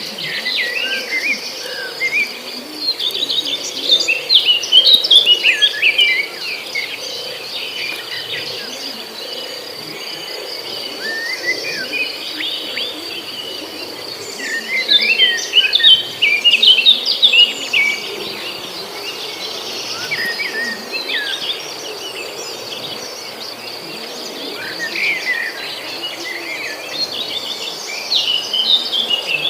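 A songbird singing in bouts of rapid, varied chirping notes, loudest a few seconds in and again around the middle, over a steady high-pitched insect buzz.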